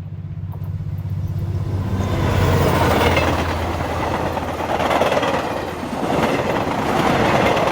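Freight train passing close by. A diesel locomotive's engine hum grows louder over the first two seconds or so, then gives way to the rumble and clatter of wagons rolling past, swelling and fading.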